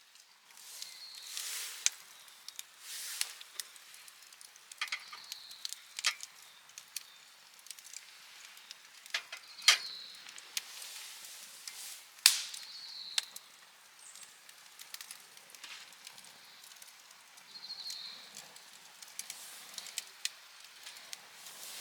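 Wood fire crackling, with irregular sharp pops and short hissing swells; two loud pops come about 10 and 12 seconds in.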